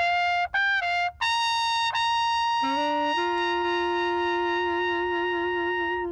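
Brass music: a trumpet plays three short notes, then holds one long high note. A second, lower note enters about two and a half seconds in and is held under it with a slight wobble, until both stop together near the end.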